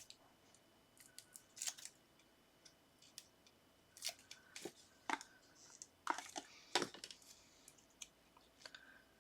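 Card and paper being handled and pressed down on a craft table: scattered soft rustles and light taps, a few louder ones near the middle.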